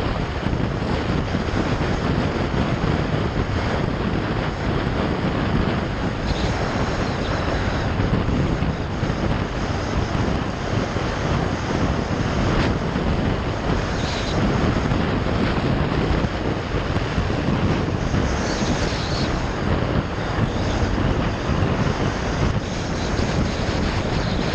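Motorcycle riding along the road, its engine noise mixed with steady wind rush over the microphone.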